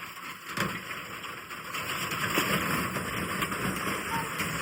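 Washing machine switched on and running hard, a loud rushing, rumbling noise that builds over the first two seconds and then holds steady.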